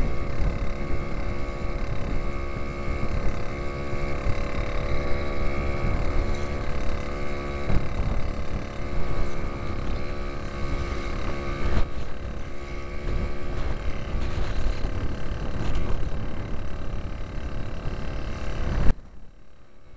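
A 1939 James Autocycle's 98cc Villiers Junior two-stroke engine running steadily under way. It is heard from a helmet-mounted camera, with wind rushing over the microphone. The sound drops away suddenly near the end.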